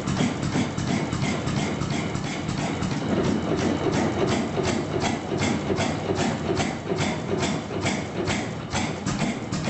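Vintage single-cylinder stationary engine running, with an even beat of about three firing strokes a second over a low mechanical rumble.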